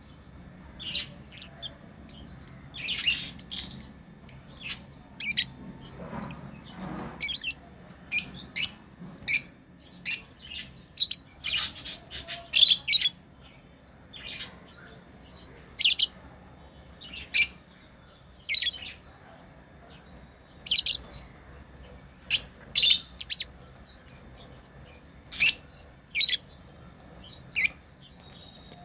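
Pet lovebirds chirping: short, sharp, high-pitched calls at irregular gaps of a second or two, with a quick run of calls about twelve seconds in.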